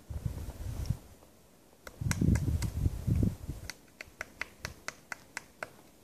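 Magellanic woodpecker pecking at tree bark: a run of sharp, single taps, about four a second, beginning about two seconds in. A louder low rumble comes at the start and again around the second and third seconds.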